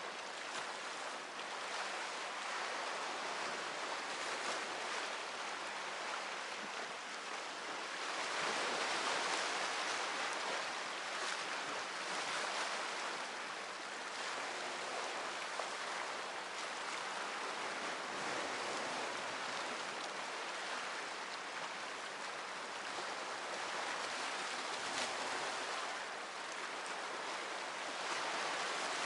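Sea waves washing onto the shore: a steady rushing that swells louder about eight seconds in, then eases back.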